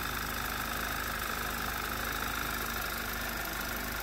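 2011 Audi TT 2.0T's turbocharged four-cylinder TFSI engine idling steadily. The whine from its newly replaced vacuum pump and high-pressure fuel pump roller tappet is now faint.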